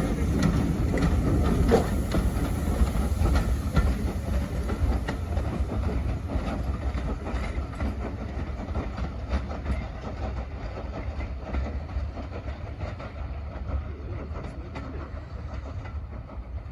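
Heritage railway train running on the track: a low rumble with wheels clicking over rail joints, growing steadily quieter.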